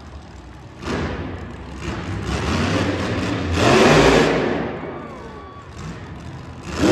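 Monster truck engine revving hard during a run, surging to its loudest about four seconds in, then easing off.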